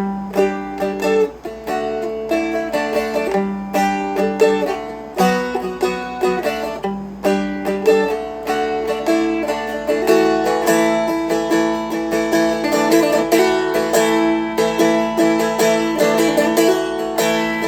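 Seagull Merlin M4, a four-string fretted dulcimer-style instrument, being picked: a melody of single notes over steady droning lower strings, the picking getting busier about halfway through.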